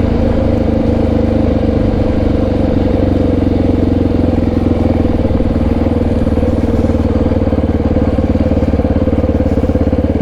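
Honda XR650R's single-cylinder four-stroke engine, with an HM aftermarket muffler, running steadily and settling into an even pulsing beat in the second half.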